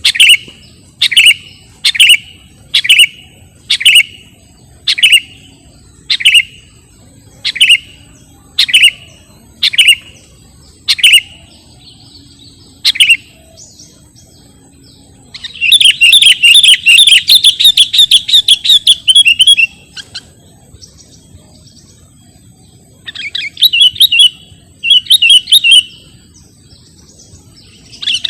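Sooty-headed bulbul (kutilang) calling: a run of short, sharp notes about one a second, then a rapid chattering phrase lasting about four seconds, then shorter chattering bursts.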